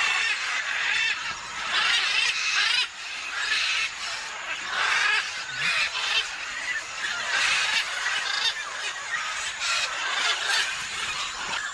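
Birds calling, a run of short, harsh calls repeating every second or so.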